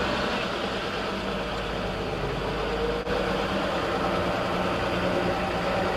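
Old pickup truck's engine running steadily at low speed while pulling in.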